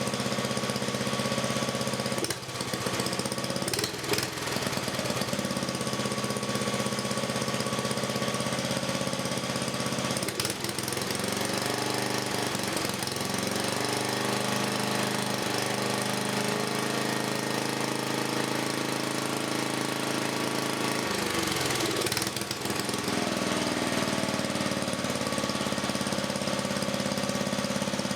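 A freshly rebuilt 1984 10 hp Briggs & Stratton single-cylinder vertical-shaft engine running steadily, now with new rings, gaskets and reseated valves, and running pretty good. Its speed shifts briefly a few times, about two, four, ten and twenty-two seconds in.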